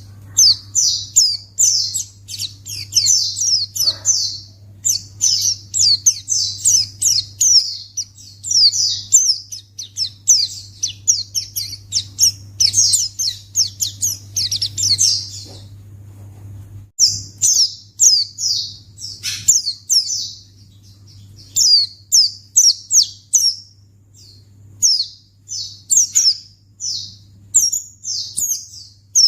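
White-eye (pleci) singing: long, rapid runs of high, quick down-slurred chirps, with a short pause about 16 seconds in. This is the kind of pleci song played to make other pleci respond.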